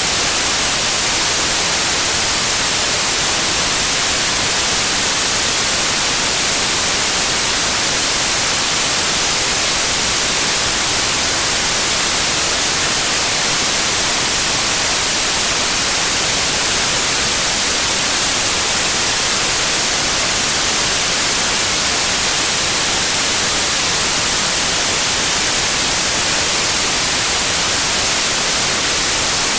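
Continuous generated noise: a loud, even hiss with no changes, its energy weighted toward the treble rather than the bass.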